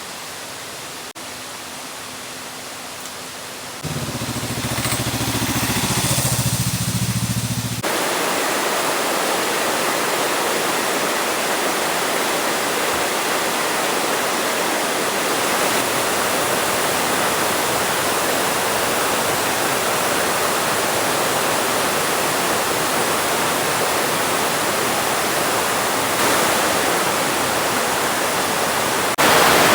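Steady rush of a large waterfall, a dense even roar of falling water. It grows louder about four seconds in and again near the end. A low steady hum runs underneath it for a few seconds from about four seconds in.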